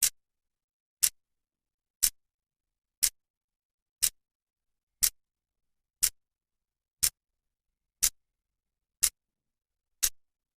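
Clock's second hand ticking, one sharp, bright click each second, evenly spaced, with silence between.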